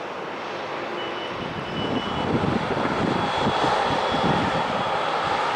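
Jet engines of a British Airways Boeing 787-9 Dreamliner (Rolls-Royce Trent 1000 turbofans) running with a steady rumble and a faint high whine, growing louder about two seconds in.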